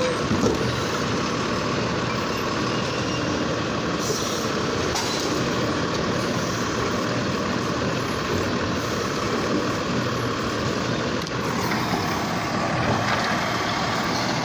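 Garbage truck engine running steadily, with road noise.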